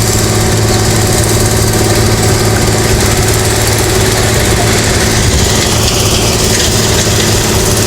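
Heavy road-construction machine's diesel engine running steadily at constant speed, a low even hum.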